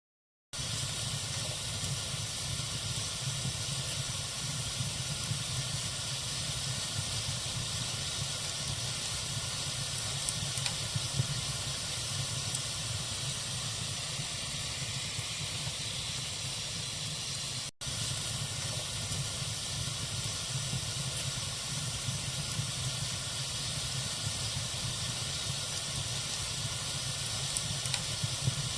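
Log fire burning in a fireplace: a steady hiss over a low rumble, with a few small crackles. The sound cuts out completely at the start and drops out for an instant about two-thirds of the way through.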